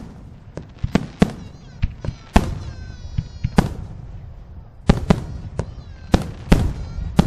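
Aerial fireworks shells bursting: about a dozen sharp booms at uneven intervals, each ringing out briefly as it echoes.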